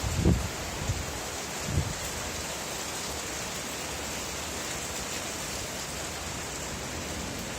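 Steady rainfall, an even hiss. A few short low thuds come in the first two seconds.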